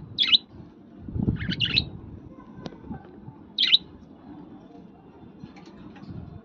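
A pet parrot giving short, sharp, high chirping calls in separate bursts: one right at the start, a quick cluster about a second and a half in, and another at about four seconds, with fainter chirps near the end.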